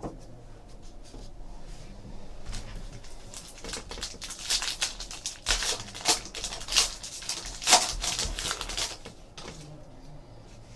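Baseball trading cards and their pack being handled: a run of sharp crackling, clicking rustles, thickest in the middle and thinning out near the end.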